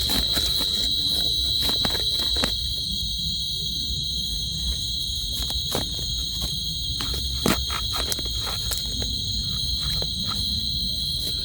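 Steady high-pitched trilling of a night insect chorus. A few sharp clicks and knocks break in, the strongest about two and a half seconds in and again about seven and a half seconds in.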